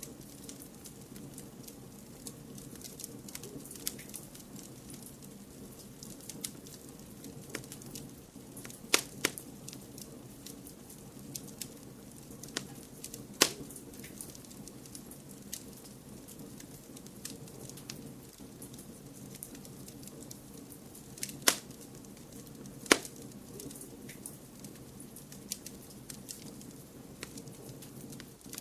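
Wood fire crackling in a fireplace: a steady low rush runs beneath many small crackles, and four sharp, loud pops stand out.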